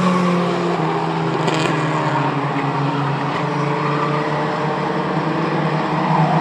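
A field of short-track race trucks running at speed around the oval, their engines making a steady, overlapping drone.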